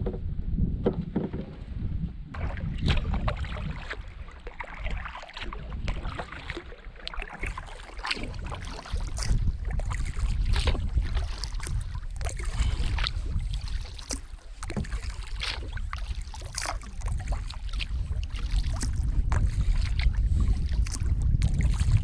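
A canoe being paddled: irregular splashes and drips of water from the paddle strokes over a heavy, uneven rumble of wind on the microphone.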